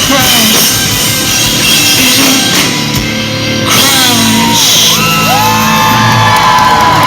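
Live post-hardcore rock band playing loud at the close of a song, with a singer shouting and holding long, sliding notes over the guitars and drums from about five seconds in.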